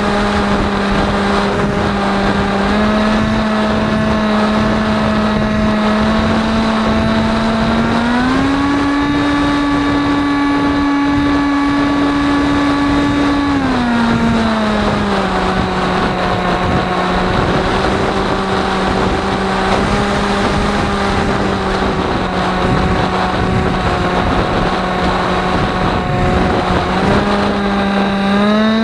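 Electric motor and propeller of an AXN RC plane running with a steady whine. The pitch steps up about eight seconds in, settles back down around fourteen seconds, and rises again near the end. A constant rush of wind noise runs under it.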